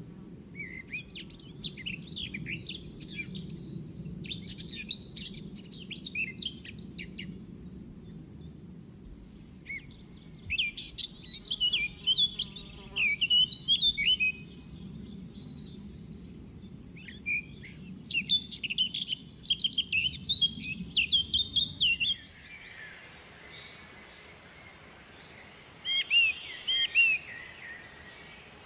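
Songbirds singing in bursts of rapid chirps and short rising and falling notes, over a steady low rumble. About three quarters of the way through, the rumble gives way to a brighter, even hiss, and a last burst of chirps follows.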